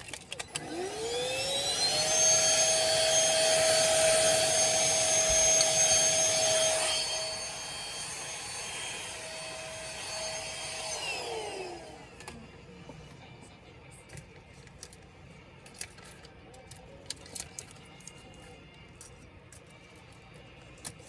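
A small high-speed electric motor with a fan spins up with a rising whine, runs steadily with a rush of air for about nine seconds, then winds down with a falling whine. Light clicks and taps follow.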